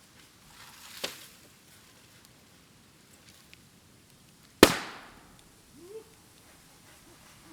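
Bamboo culms bursting in a bonfire: a sharp pop about a second in, then a much louder bang a little past halfway, as the sealed chambers between the nodes split from the heat. A short rising whistle follows the bang.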